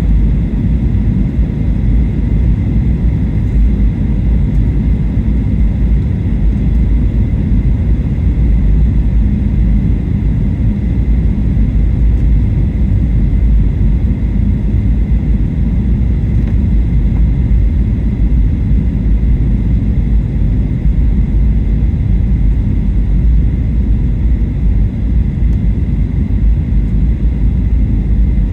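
Steady low rumble of airflow and engines inside the cabin of a Boeing 737-800 on final approach, with a faint steady whine.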